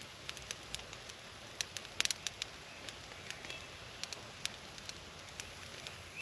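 Small campfire of fatwood and wet cedar crackling: irregular sharp pops over a faint steady hiss, the wet wood sizzling as it burns.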